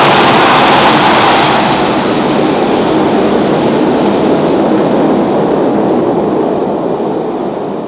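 Express train passing through an underground tunnel station at speed, heard behind closed platform doors as a loud, steady rushing roar of train and air that slowly fades.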